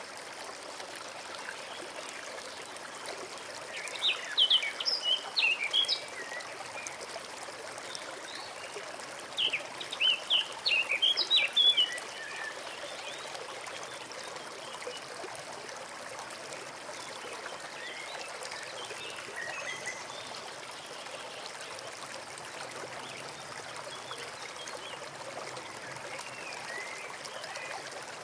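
Small forest stream trickling steadily, with a songbird singing two short bursts of quick chirps about four and ten seconds in, and fainter calls later.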